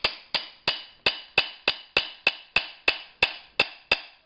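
The ball end of a glass cutter tapping along a scored line on a sheet of glass, about three even taps a second, each a sharp tick with a short glassy ring. The tapping runs the crack along the score so the glass will break cleanly.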